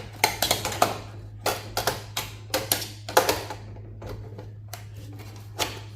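Metal server parts clicking, clinking and knocking as they are handled and pulled loose: a quick run of sharp knocks over the first three seconds or so and one more near the end, over a steady low hum.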